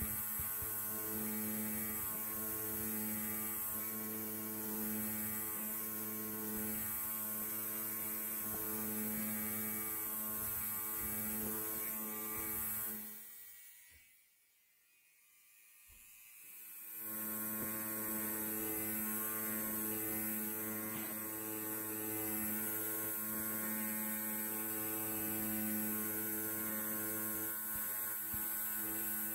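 Electric hair clipper running with a steady buzz. About halfway through it fades out almost to nothing, then fades back in a few seconds later.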